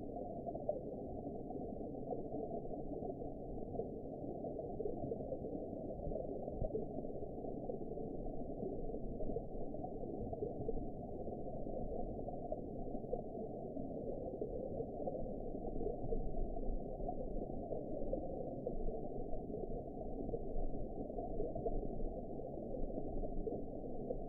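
Muffled underwater ambience: a steady, low-pitched wash of water noise with no sharp sounds, all its sound below about 1 kHz.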